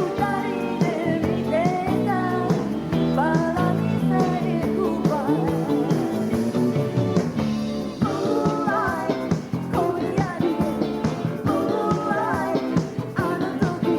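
Live pop-rock song: a woman singing over a band with electric guitar, steady and full throughout.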